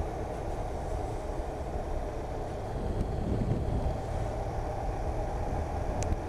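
Motorcycle running steadily at road speed, with engine rumble and wind noise over the microphone and a single small click near the end.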